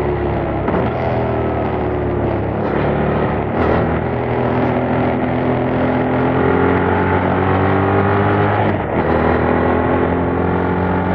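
Yamaha MT-07's parallel-twin engine through its stock exhaust under way, revs climbing steadily under throttle, then a brief dip near the end as it shifts up and pulls again.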